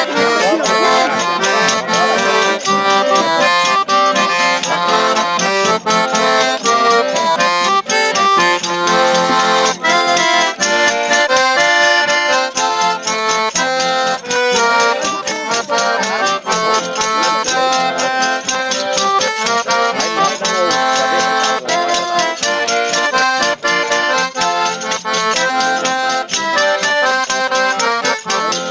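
Eight-bass button accordion (sanfona de oito baixos) playing a lively traditional Brazilian dance tune, with percussion keeping a quick, steady beat.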